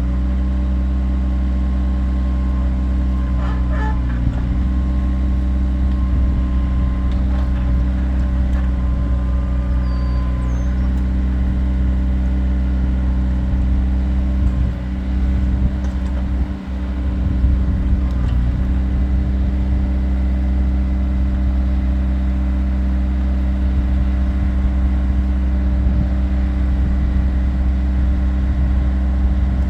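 Kioti tractor's diesel engine running steadily under a constant throttle, with two brief dips in level around the middle.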